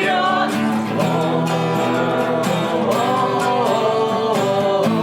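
Acoustic guitar strummed steadily in a rock song, with a melody line bending up and down above the chords.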